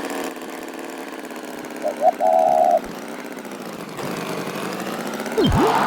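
Cartoon tractor engine sound effect running steadily at idle. A short steady tone sounds about two seconds in, and a quick swoop falling and rising in pitch comes near the end.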